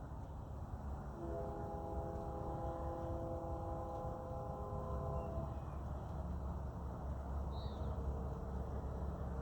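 A distant horn sounds a steady multi-note chord for about four seconds, beginning about a second in, over a steady low rumble; a short high chirp comes near the end.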